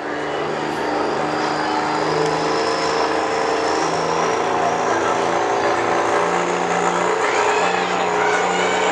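1998 Dodge Ram's Cummins 5.9 L diesel pulling the sled down the track under heavy load, running hard and steady with its pitch stepping slightly, and a high whine rising slowly through it.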